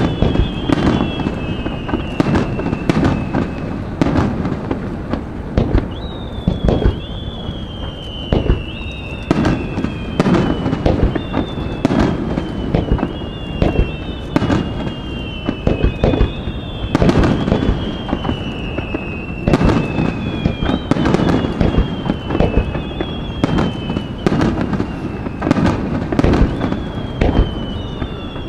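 Aerial fireworks display: shells going off in a dense, continuous run of sharp bangs and crackle. High whistles slide down in pitch every couple of seconds over the bangs.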